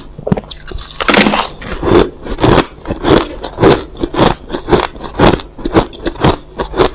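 A person biting and chewing crushed ice: sharp crunches about twice a second, with a longer crackling crunch about a second in.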